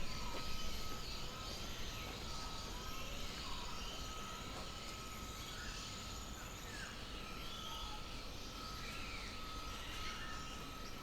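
Birds chirping now and then in short calls over a steady high-pitched insect drone, with a low rumble underneath.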